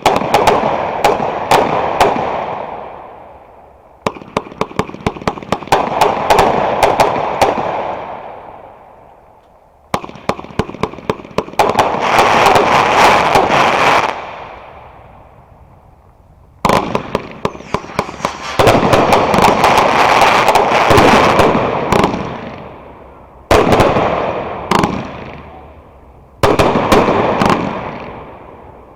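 Fireworks going off in repeated volleys: each starts with a quick string of sharp bangs and trails into a loud crackling fizz that fades over a few seconds before the next volley begins.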